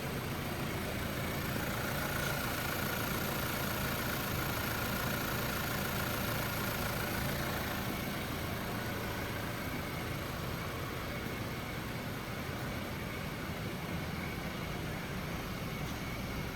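2018 Chevrolet Equinox's 1.5-litre turbocharged four-cylinder engine idling steadily.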